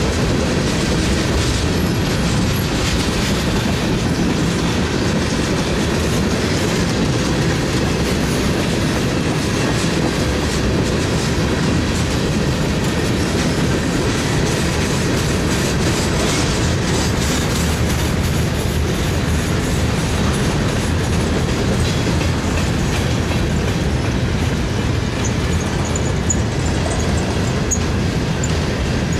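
Freight cars of a mixed train, tank cars and then boxcars, rolling past close by. Their steel wheels on the rails make a steady, loud noise.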